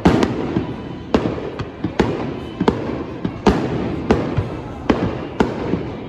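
Aerial fireworks going off: a rapid string of sharp booming bursts, about one or two a second, each fading into a rolling low rumble.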